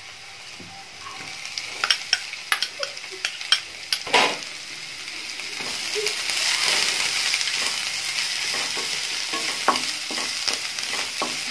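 Sliced onions, garlic, ginger and green chillies frying in oil in a nonstick kadai, stirred with a wooden spatula: sizzling with the spatula's scrapes and taps against the pan. The sizzle grows louder about six seconds in, once the onions are in the oil.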